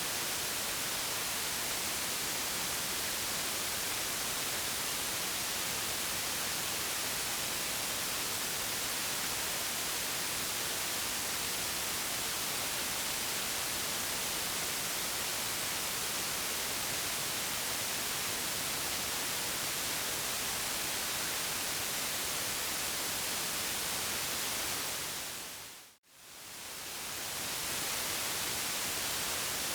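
Steady white noise hiss with no tones or rhythm. Near the end it fades to silence for a moment and fades straight back in.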